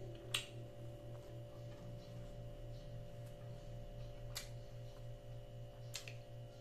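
Eating sounds: a few short, sharp mouth clicks and smacks while chewing a mouthful of rice and meat, the first the loudest. Under them runs a steady low electrical hum that pulses about three times a second.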